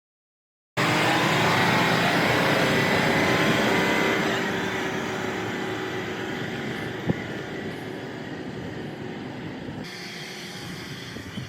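A rock truck's engine running loudly, starting abruptly just under a second in, then getting steadily quieter from about four seconds in. There is a single sharp click about seven seconds in.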